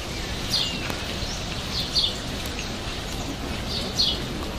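Birds giving short chirps every second or two over a steady low background rumble.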